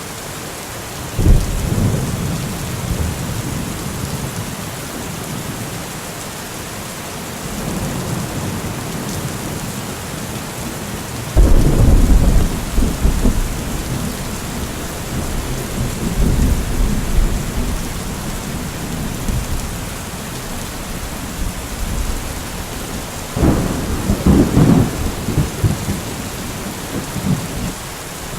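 Steady rain falling, with rolls of thunder rumbling over it: a sharp crack about a second in, the loudest roll at about a third of the way through, and another strong peal near the end.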